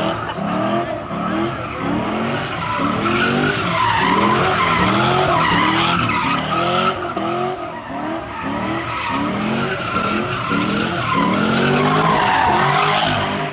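A car spinning its tyres: the tyres squeal steadily while the engine revs up and falls back over and over, roughly once or twice a second.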